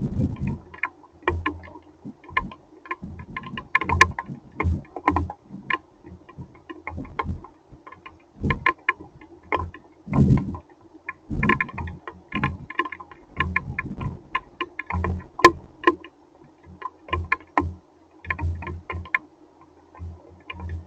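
Hailstones striking a hard surface in many irregular clicks and knocks of varying loudness, over a steady faint hum.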